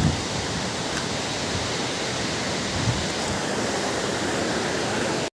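Waterfall making a steady, even rushing noise of falling water.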